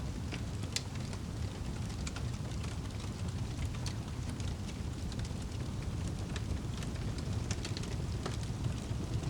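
Wood fire burning in a fireplace, with a steady low rumble of the flames and irregular sharp crackles and pops throughout.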